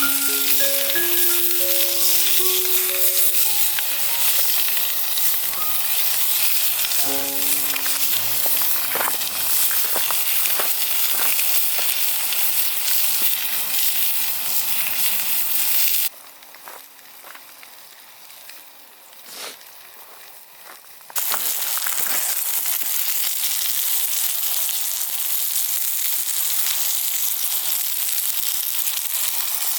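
Food frying in a hot pan with a steady sizzle. A soft musical melody plays over roughly the first ten seconds. Around the middle the sizzle drops away for about five seconds, then comes back.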